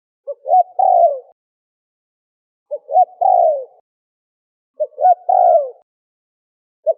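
Spotted dove (terkukur) cooing: three repeated phrases about two seconds apart, each a short note, a rising note and a longer falling coo, with a fourth phrase beginning at the end.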